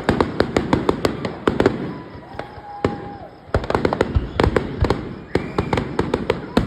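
Fireworks display: dense crackling and popping in rapid volleys. It eases off for about a second and a half near the middle, then comes back just as thick.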